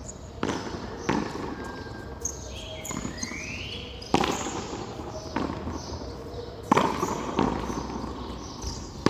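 Frontón handball rally: the hard ball smacked by hand and slamming against the wall and floor, a string of sharp, irregularly spaced hits about a second apart, each with a short echo. The loudest hits come about four and seven seconds in.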